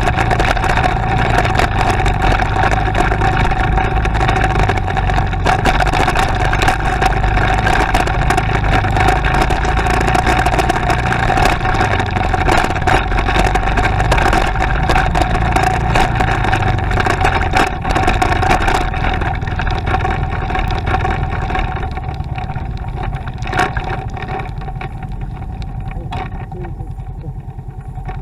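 Motorcycle engine running steadily under way, with a constant hum and rushing noise. It gets quieter over the last several seconds.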